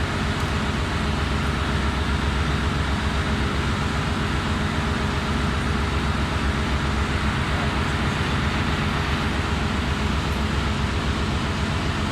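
Steady drone of running engine-room machinery, a loud, even rumble that holds without change.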